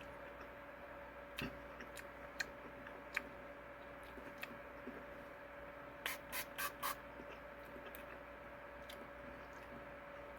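A candy spray bottle pumped in four quick squirts about six seconds in, with a few faint clicks earlier, over a steady faint hum.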